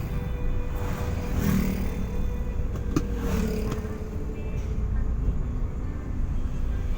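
Road vehicle driving along, a steady low rumble of engine and road noise, with a sharp click about three seconds in.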